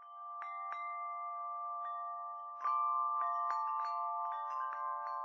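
Wind chimes ringing: irregular strikes over several overlapping notes that hang on, a louder flurry of strikes about two and a half seconds in.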